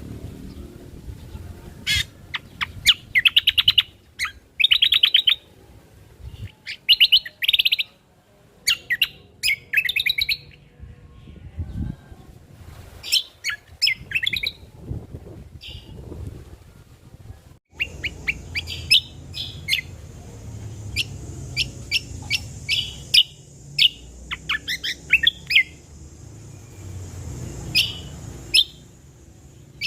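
Cucak kombo singing: bursts of rapid chirps and quick trills, with short pauses between phrases. A steady high hiss joins in about two-thirds of the way through.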